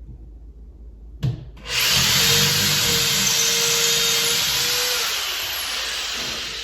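Power drill boring into the wall for a TV wall mount's bolts. After a click about a second in, the drill starts just under two seconds in and runs steadily for about five seconds, easing off near the end.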